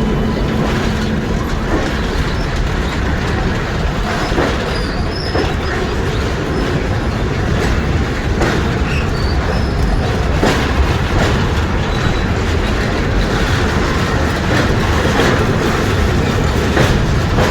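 Passenger train running at speed, heard from inside a coach: steady rumble of wheels on track with scattered clicks and knocks from the rail joints.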